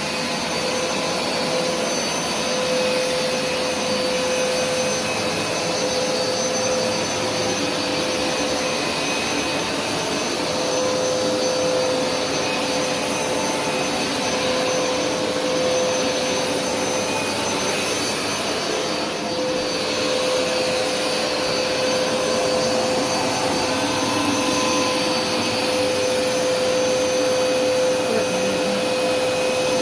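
Hoover Smartwash upright carpet washer running steadily over carpet, its suction motor giving a constant hum with a steady whine.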